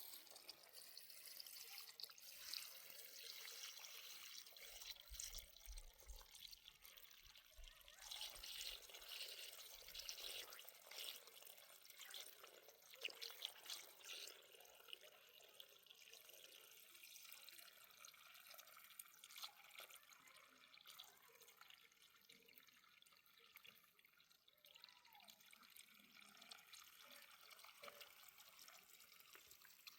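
Faint trickling and dripping of irrigation water running over the soil of a vegetable plot, with small irregular splashes, busier in the first half.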